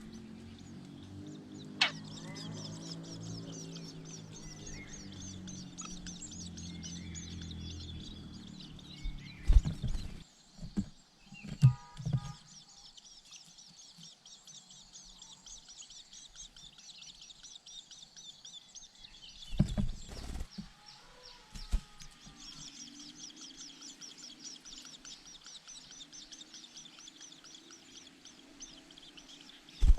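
Birds chirping over a steady, fast high trill. A low drone fades out in the first eight seconds, and a few loud knocks come around ten to twelve seconds in and again around twenty seconds.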